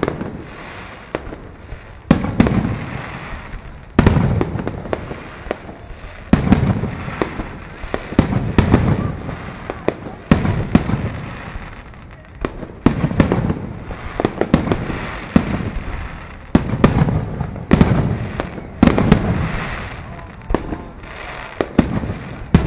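Fireworks display: aerial shells bursting one after another, a sharp bang every second or two, each trailing off in a rolling rumble, with smaller pops in between.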